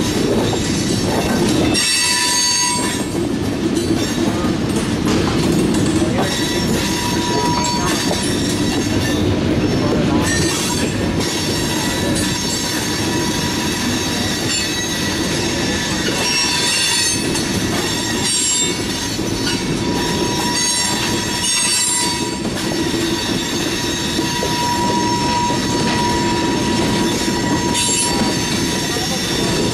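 Covered hopper cars of a freight train rolling past, their steel wheels rumbling and clattering on the rails, with a high wheel squeal that comes and goes.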